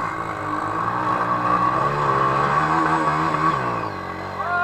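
Off-road motorcycle engine revving hard and unevenly, its pitch rising and falling. A voice shouts near the end.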